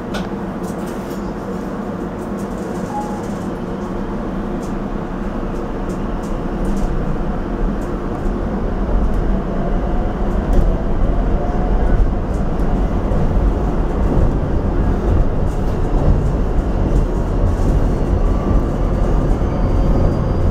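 Rotem Silverliner V electric commuter railcar pulling away from a station and accelerating, heard from inside the car. A low rumble of wheels on rail grows louder over several seconds, with a faint whine from the electric traction motors rising in pitch.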